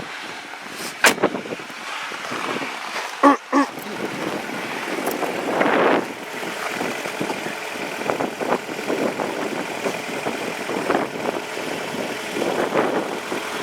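2011 Ford Fusion's 2.5-litre inline-four idling shortly after a cold start in deep cold, with handling noises on the car: a sharp click about a second in and two short ringing knocks around three and a half seconds in.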